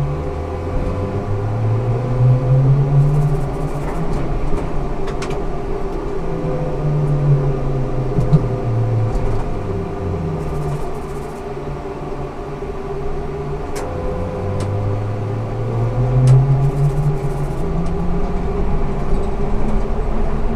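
Ikarus 280T GVM trolleybus running in service. Its electric drive whines, rising in pitch about four times as it picks up speed, over a steady running drone, with a few knocks and rattles from the body.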